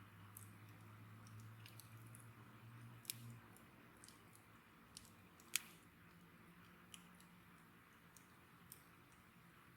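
Wood bonfire crackling quietly: scattered sharp pops over a soft hiss, the loudest pop about five and a half seconds in. A faint low hum runs through the first three seconds.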